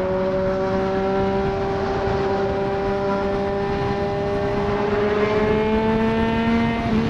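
Triumph Street Triple 765 RS inline-three with a Racefit Growler full exhaust, running at steady revs on the move. The engine note climbs slowly over the last couple of seconds, then drops sharply at the very end, as at a gear change.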